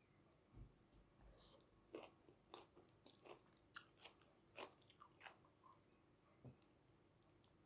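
Faint mukbang eating sounds close to the microphone: chewing with a dozen or so soft, sharp clicks and crunches, irregularly spaced.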